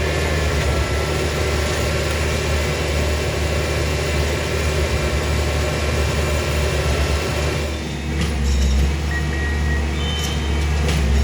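Engine of a small rail maintenance-of-way track machine running steadily close by, with a few sharp clicks in the last few seconds.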